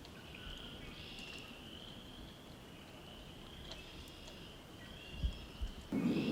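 Outdoor evening ambience: a steady high-pitched trilling chorus of small animals in the background, with a couple of low thumps about five seconds in and a louder rushing noise starting just before the end.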